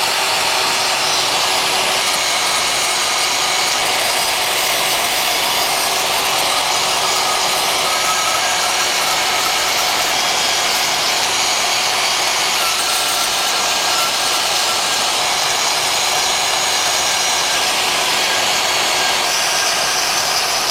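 A power tool running steadily without a break, cutting out small drilled triangle pieces for mounts.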